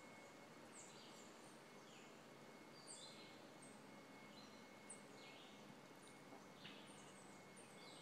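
Faint wild birds chirping: many short, high chirps, several falling in pitch, scattered over a steady background hiss.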